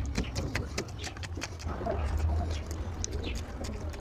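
Close-miked eating sounds: chewing and wet lip-smacking of a mouthful of curry and rice, heard as many quick irregular clicks over a steady low hum.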